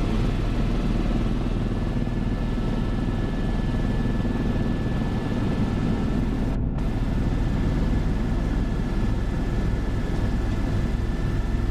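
Vehicle running steadily: a continuous low drone with a faint steady high whine.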